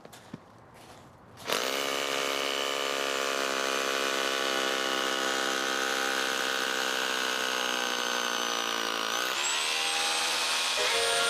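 Makita BHR241 18V cordless SDS Plus rotary hammer drilling into concrete. It starts about a second and a half in and runs steadily at full speed. Its pitch dips and picks up again near the end.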